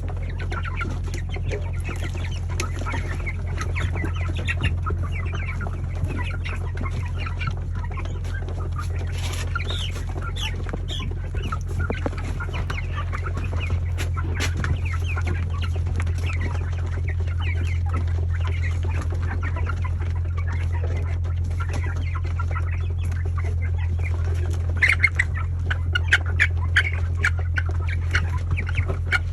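A flock of young broiler chickens, about a month old, peeping and clucking continuously over a steady low hum, with a burst of louder calls near the end.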